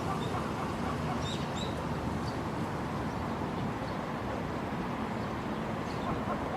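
A few short, high bird chirps, a pair about a second and a half in and single ones later, over a steady background hum of outdoor ambience.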